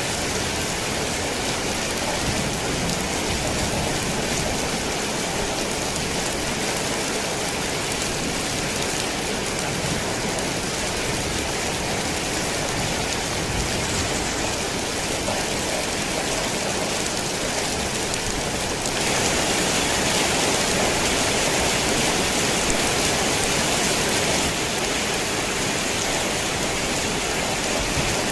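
Heavy rain falling on a worn tin roof: a dense, steady hiss of drops that swells louder and brighter for about five seconds, starting about two-thirds of the way in, then settles back.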